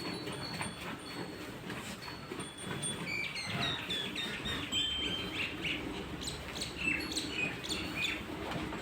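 Small birds chirping in a quick series of short, high calls that grow busier about three seconds in.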